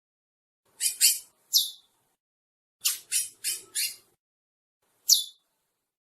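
Chestnut-bellied seed finch (curió) singing short, high notes that sweep downward, in separate groups: a pair about a second in, a single note, a quick run of four near the middle, then one more note near the end.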